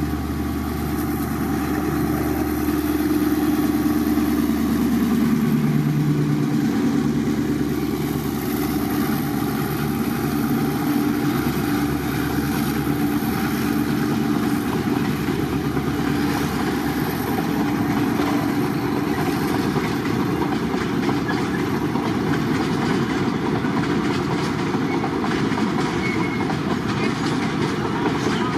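A diesel-hauled train passing: the locomotive's engine is heard at first, then a steady clatter of wheels over the rails as the cars roll by.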